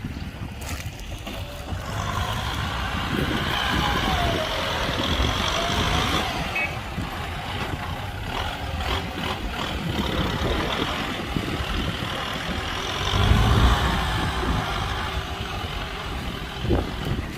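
Heavy diesel earthmoving machinery running steadily, with a louder low surge about two-thirds of the way in.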